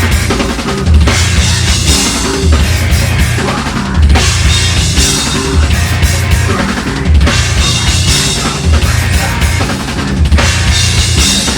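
Metal band playing live, an instrumental passage with heavy kick drum, snare and crashing cymbals under dense, loud band sound.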